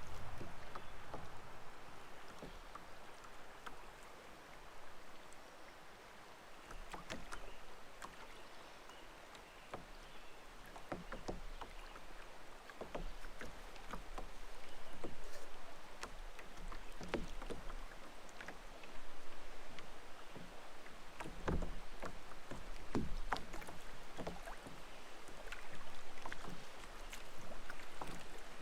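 Kayak being paddled on a creek: the paddle dipping and pulling through the water with splashing and dripping, and short sharp knocks now and then. The sound swells about every three to four seconds with the strokes.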